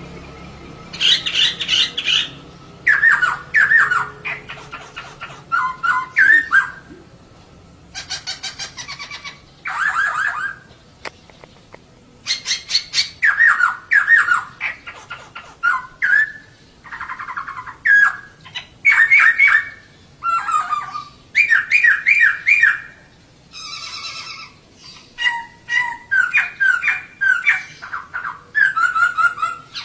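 Female laughingthrush (poksay) calling in loud bursts of rapid, repeated chirps. The phrases come one after another every second or two.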